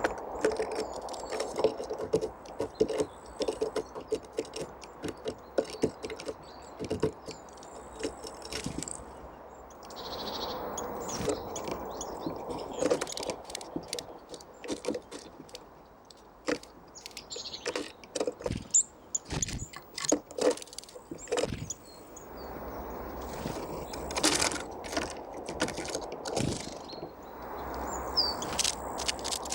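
Small forest birds feeding on seeds: irregular sharp pecking taps and clicks, with a few brief high chirps.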